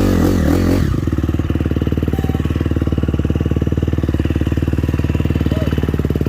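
Motocross dirt bike engine running steadily at low revs with a fast, even pulse. It is blipped up and down briefly in the first second.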